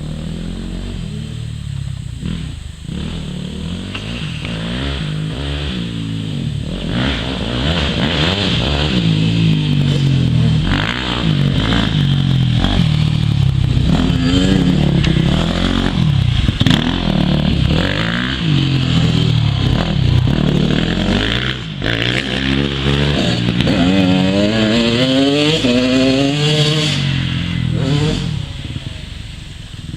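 Several motocross bikes racing on a dirt track, their engines revving up and falling back as they accelerate and brake through the corners, several engines overlapping. The sound swells as the bikes come closer from about a quarter of the way in and fades near the end.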